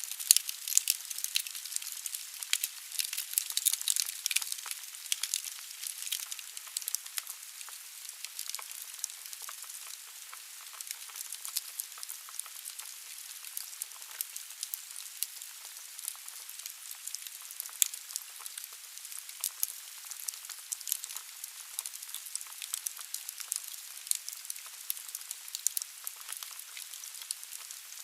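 Wood fire burning in a fireplace: logs crackling with quick, irregular snaps and pops over a steady hiss of the flames, busier during the first several seconds.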